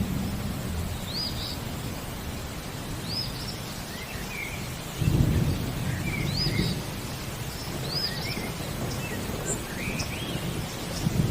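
Steady rain with thunder rumbling, loudest about five seconds in. Over it a bird repeats a short arched whistle about every two seconds, with softer lower chirps in between.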